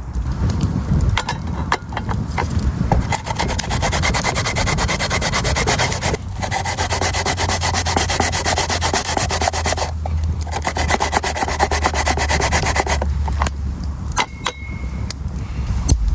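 Fast rhythmic scraping, like rubbing or sanding, running in long stretches that break off briefly about six and ten seconds in and stop about thirteen seconds in, followed by a few scattered clicks.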